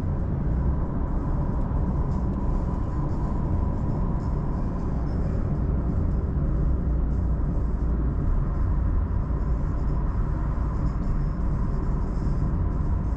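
Car driving at a steady speed: a continuous low road and engine rumble with a faint steady whine above it.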